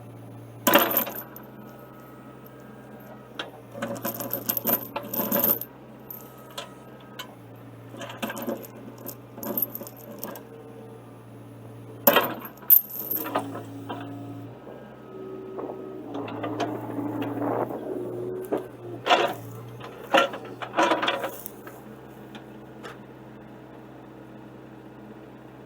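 Excavator engine running with a steady low hum, while a steel chain clanks and rattles against the iron post and bucket in repeated bursts, with sharp single clanks about a second in, around the middle and near the end.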